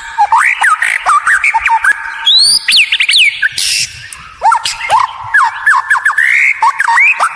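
White-rumped shama (murai batu) singing at full pace: fast, varied runs of whistles and sweeping notes mixed with sharp clicks, broken by a short pause about four seconds in.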